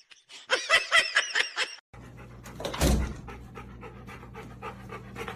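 A dog panting in quick, even breaths, starting about two seconds in after a short stretch of pitched, bending tones from the previous clip.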